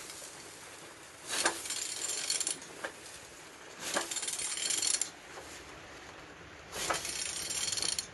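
A Renault M9T diesel engine being turned over by hand with a ratchet wrench on the crankshaft. Three rasping strokes of clicks, each about a second long, come a few seconds apart; the engine turns freely.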